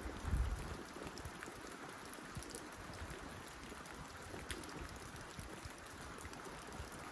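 Steady rain on a tin roof, with scattered individual drops ticking sharply through the hiss. A brief low rumble about half a second in.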